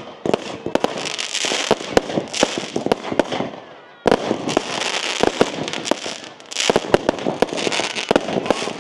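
Fireworks going off in quick succession: many sharp bangs and crackles over a fizzing hiss. There is a brief lull about three and a half seconds in, then a fresh volley starts abruptly.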